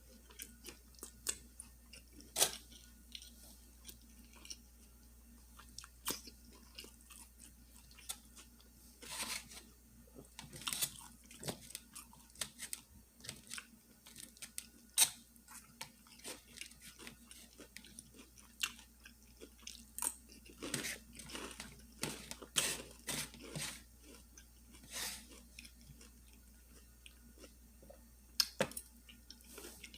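A person chewing and crunching food close to the microphone: irregular crisp crackles and wet smacks, with a few louder crunches, the loudest about halfway through.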